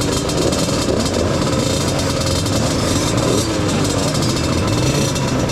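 Small off-road motorcycles running, with a pitch that rises and falls over a steady rumble.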